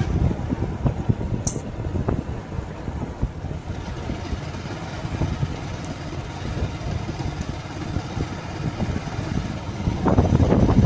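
Motorcycle running along the road with wind noise on the microphone. The rumble swells louder about ten seconds in, and there is a brief high chirp about a second and a half in.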